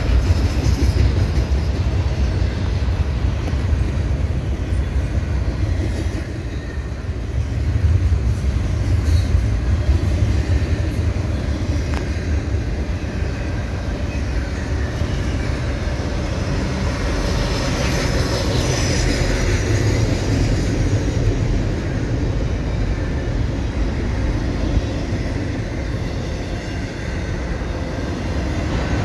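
Double-stack intermodal freight cars rolling past on steel rails: a steady, loud rumble and rattle of wheels on track, with a spell of brighter, high-pitched wheel noise about two-thirds of the way through.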